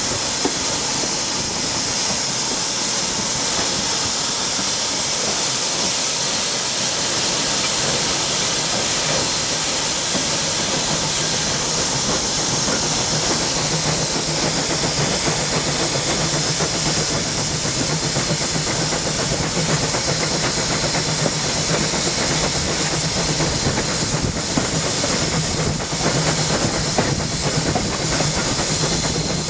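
Steam locomotive giving off a steady, unbroken hiss of steam, with a low hum joining in about nine seconds in.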